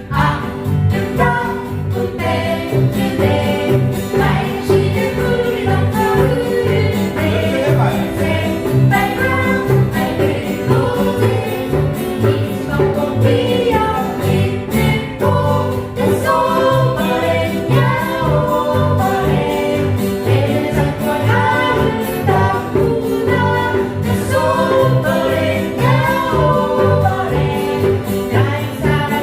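A group of voices singing a song over instrumental accompaniment with a steady beat.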